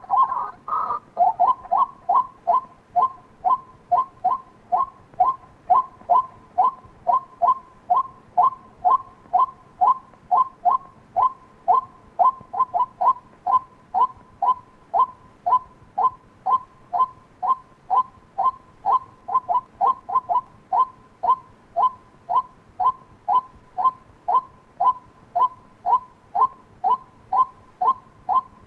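White-breasted waterhen calling: a steady run of short, evenly repeated notes, about two a second.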